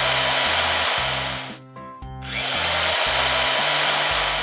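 Cartoon power-drill sound effect tightening a part: two long runs, broken by a short gap about a second and a half in. Background music with a bass line plays underneath.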